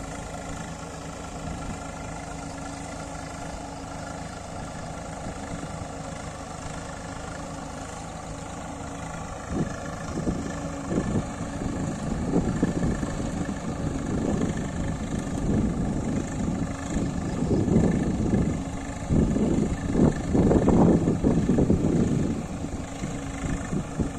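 Swaraj 855 tractor's diesel engine running steadily. About ten seconds in it gets louder and uneven, surging up and down, loudest near the end.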